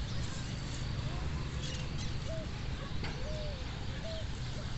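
A series of faint, short bird calls, about one a second, over a steady low rumble, with a few higher chirps mixed in.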